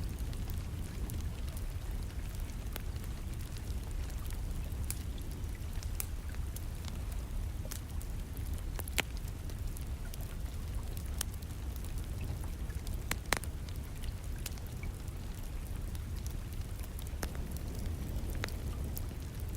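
Wood burning in a fireplace, with irregular sharp crackles and pops over a steady low rumble, blended with a constant hiss of rain.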